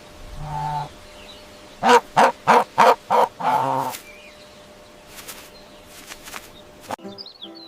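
Turkey gobbling: a rapid run of about six loud pulsing calls that ends in a longer call, after a short low call under a second in.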